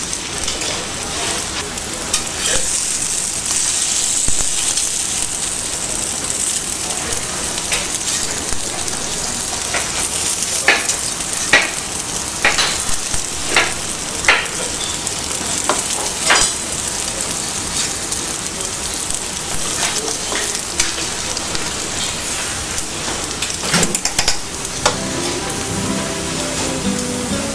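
Potato pancakes sizzling steadily in clarified butter in a large pan, with a few sharp clicks of the metal spatula against the pan in the middle as the pancakes are turned. Acoustic guitar music comes in near the end.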